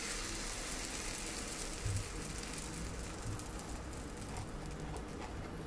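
Buttered toastie sizzling in a non-stick frying pan under a metal spatula: a steady crackly hiss, with a soft low knock about two seconds in.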